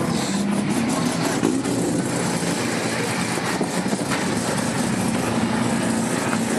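Car engine running steadily at low revs, with no revving.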